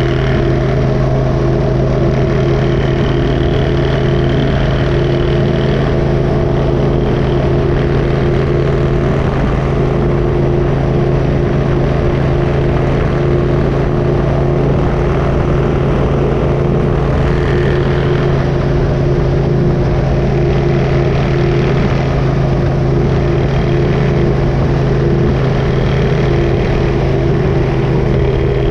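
Motorcycle engine running at a steady cruising speed, its pitch holding constant, with a low road rumble underneath.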